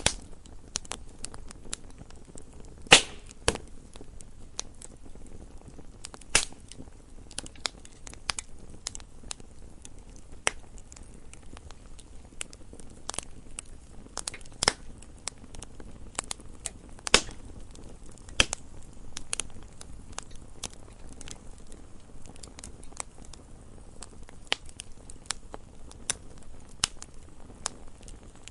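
Wood fire crackling: irregular sharp pops and snaps over a low steady hiss, with a few louder pops.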